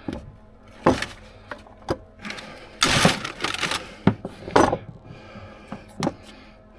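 Irregular metallic clicks and knocks of hand tools and a grease gun being handled on a machine, with a longer scraping rustle about three seconds in.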